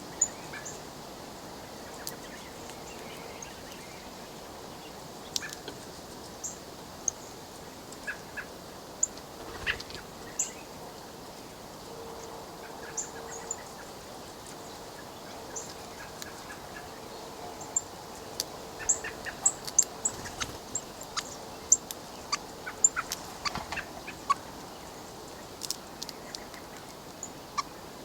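Birds pecking at sunflower seeds in a plastic window feeder: irregular sharp taps and clicks of beaks on seed husks and the plastic tray, coming thicker in the second half, over a steady hiss.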